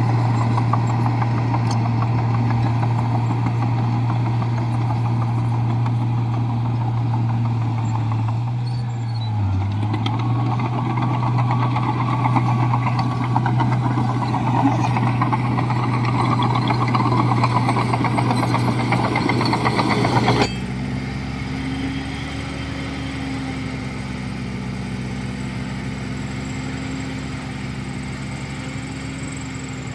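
Heavy diesel engine of a Komatsu bulldozer running steadily, its pitch dipping briefly about nine seconds in. About twenty seconds in, the sound drops abruptly to a quieter, steady engine drone.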